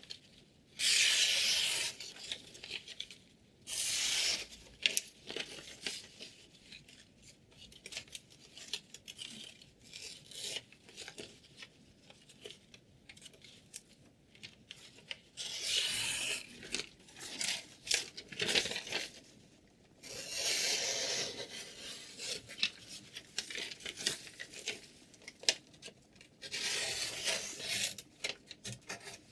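Chef knife blade rasping in several separate strokes of one to two seconds each, with small clicks and handling noises between.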